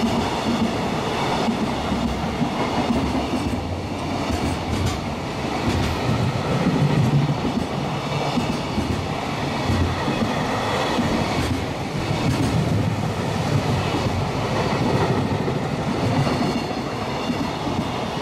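Freight train of container flatcars, most of them empty, and tank wagons running through the station without stopping. Its wheels make a steady rumble and clatter with repeated clicks over the rail joints, and a faint high ringing rides above it.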